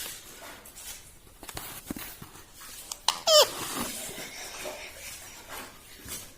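A pet parrot giving one short, sharp squawk about three seconds in, with a few faint taps and clicks around it.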